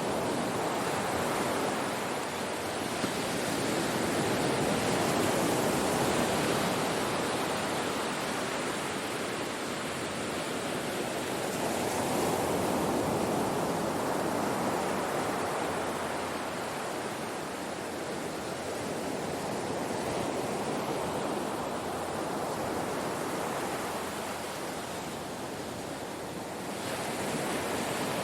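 Ocean surf breaking on a shore in a continuous wash of noise that swells and eases every few seconds as waves come in and draw back.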